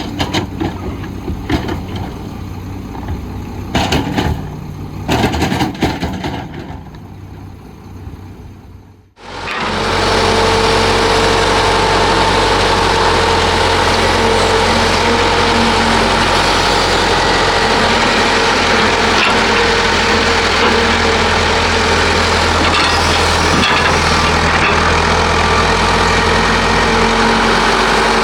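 Heavy diesel construction machinery at work: an engine running with several sharp clanks and knocks. About nine seconds in, the sound drops away and is replaced by a louder, closer diesel engine running steadily.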